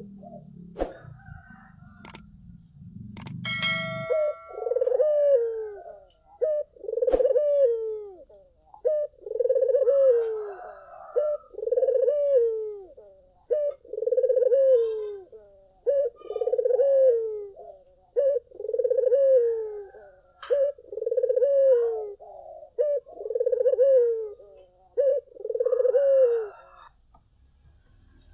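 Ringneck dove (puter) cooing over and over, about one coo a second, each call bending down in pitch at its end. The run of coos starts about four seconds in, after a few sharp clicks.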